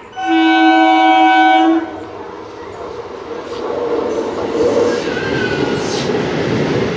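Electric suburban local train (EMU) sounding one steady horn blast of about a second and a half. Its running noise follows as it rolls in along the platform, building up and then holding loud.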